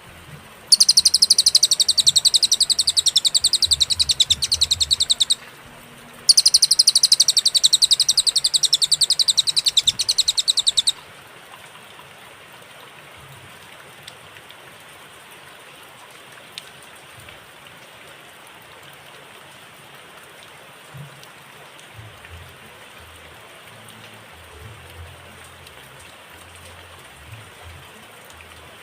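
Cililin songbird giving two long, fast, high trills of about four and a half seconds each, separated by a pause of about a second, followed by a long stretch of steady faint hiss with no song.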